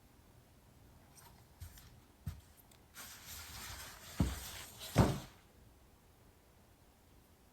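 Handling noise: soft knocks and a hissy rustle, then two thumps about four and five seconds in, the second the loudest.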